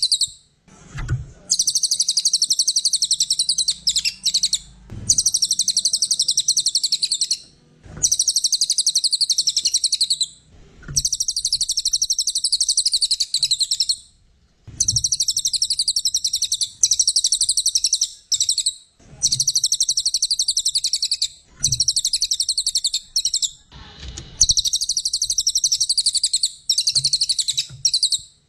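A cililin songbird singing in full voice: fast, high-pitched chattering trills in runs of one to three seconds, with short pauses between them. Soft low thumps sound in some of the pauses.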